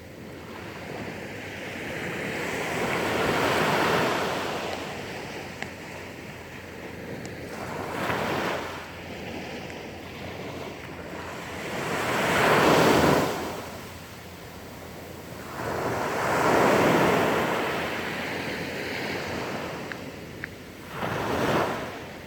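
Sea waves breaking on the shore, swelling and washing in five times about four seconds apart, the one midway the loudest.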